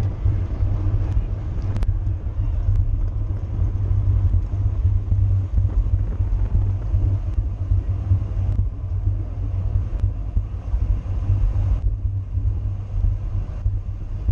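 Steady low rumble of wind buffeting the microphone of a camera riding on a bicycle at racing speed, with a faint click about two seconds in.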